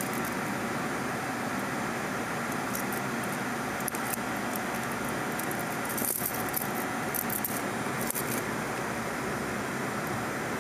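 Light metallic jingling and a few sharp clicks as the scan tool's plug-in adapter key is swapped and handled, the jingles bunched about six to eight seconds in, over a steady background hum.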